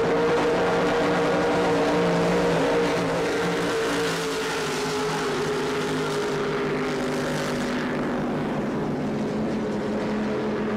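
Offshore racing powerboat engines running in a steady, multi-toned drone that shifts in pitch a few times, over a hiss of spray and wind.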